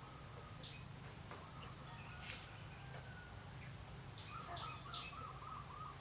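Birds chirping in the background over a steady low hum, with a single sharp click a little over two seconds in.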